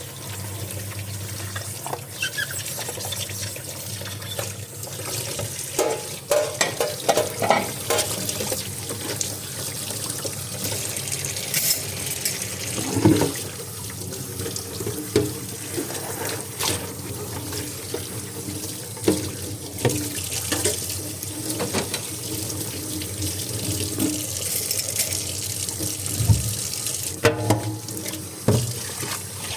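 Tap water running steadily into a kitchen sink while dishes are washed under it, with repeated clinks and knocks of dishes handled in the sink, a cluster of them a few seconds in.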